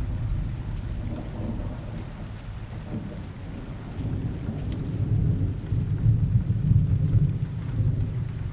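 Steady rain with a low rolling thunder rumble that swells in the second half.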